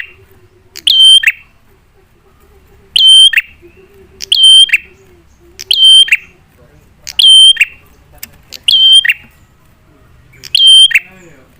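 A prenjak (prinia) calling loudly and repeatedly, seven short sharp calls about every one and a half seconds, each a held high note that breaks into a lower sharp note. It is the male's lure call, used to make other prenjak answer.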